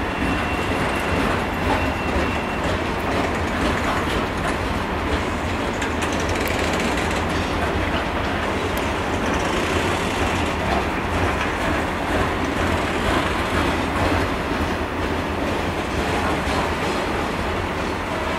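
Freight train of red bogie hopper wagons rolling steadily past, its wheels running over the track in a continuous even rumble.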